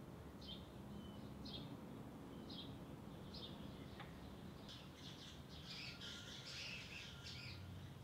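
Small songbird chirping: short high chirps about once a second, then a busier flurry of chirps in the second half, over a faint low background hum.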